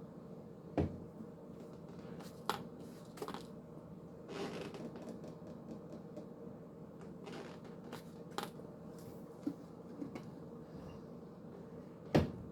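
Scattered soft knocks and clicks, with a brief rustle, over a steady low hum; the sharpest knocks come just under a second in and near the end.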